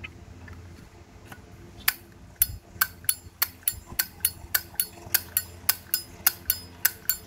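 Chrome Zippo lighter's lid snapped open and shut over and over, a run of sharp metallic clicks at about four a second starting about two seconds in: a demonstration of the lighter's click, which is called a nice sound.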